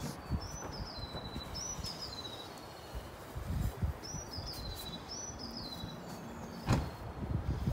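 A small songbird repeats a short, high whistled phrase four times, each rising and then falling, over faint outdoor background noise. A single sharp knock sounds near the end.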